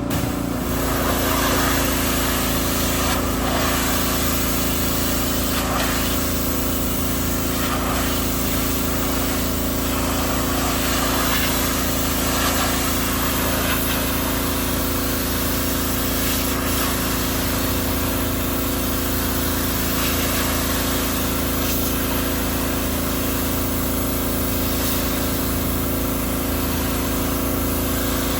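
Pressure washer running steadily, its motor drone under the continuous hiss of the water spray.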